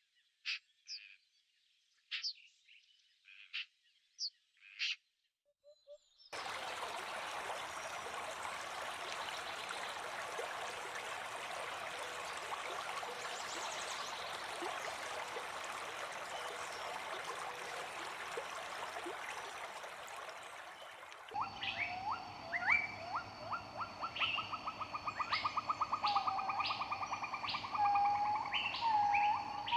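Wild birds calling in forest ambience: at first a handful of short, sharp chirps with gaps between them, then about fifteen seconds of dense, steady hiss, then a busy mix of bird calls and rapid trills over steady high-pitched tones.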